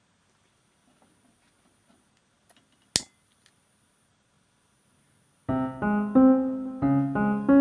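Near silence with a few faint ticks, broken by one sharp click about three seconds in. Piano background music starts about two seconds before the end, notes played at a moderate steady pace.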